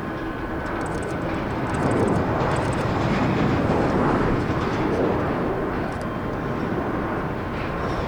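Jet airliner landing, its engine noise swelling for about three seconds as it passes, then easing off.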